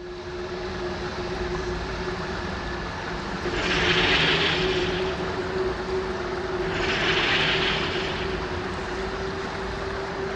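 Film sound-effects ambience for a mystical shrine: a steady low rumbling drone with a held hum, and two swells of hiss that rise and fade, about three seconds apart.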